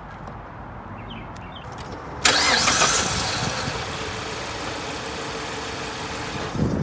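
A car engine starts about two seconds in, catching suddenly and running louder for a moment, then settles into a steady idle.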